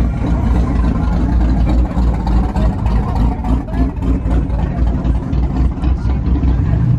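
A vehicle engine running, loud and low-pitched, its level rising and falling unevenly.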